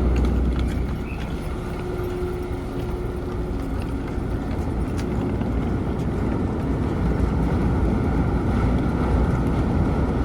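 Steady low rumble of the car ferry Asakaze 21's engines and machinery, with some wind on the microphone.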